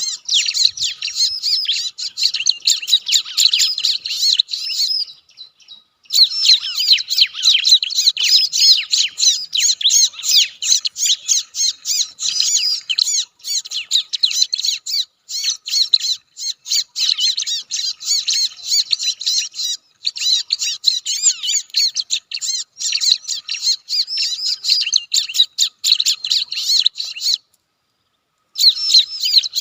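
Dense, rapid, unbroken chattering and squawking of bar-winged prinias (ciblek), many harsh calls overlapping, with two short breaks, one about five seconds in and one near the end.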